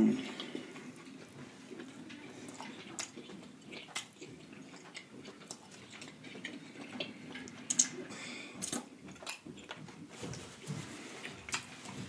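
Close-up chewing and wet mouth sounds of someone eating soft, butter-sauced seafood by hand: lips smacking with many small sharp clicks, and a short louder low sound right at the start.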